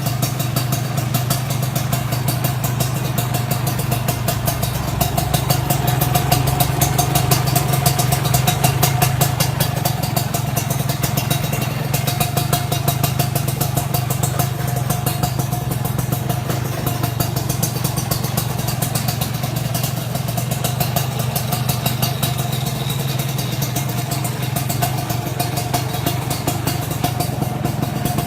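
Kawasaki KR150 two-stroke single-cylinder motorcycle engine idling steadily with a rapid, even exhaust beat, running slightly harder for a few seconds about a quarter of the way in.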